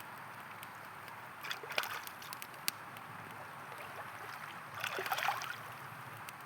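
River water rushing steadily, with two louder gurgling splashes about a second and a half in and again about five seconds in, and scattered sharp pops from a crackling campfire.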